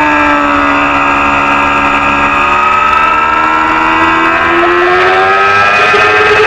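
Small-displacement supersport racing motorcycle engine at speed. Its note sinks slowly as the bike comes off the throttle, then climbs again from about two-thirds of the way in as it accelerates.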